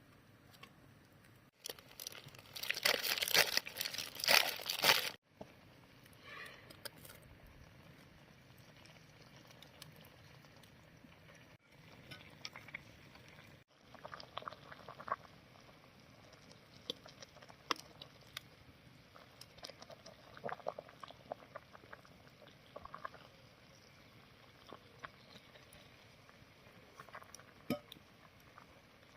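A loud crinkling, crackling burst lasting about three seconds, starting a second and a half in, followed by scattered small clicks and knocks from handling.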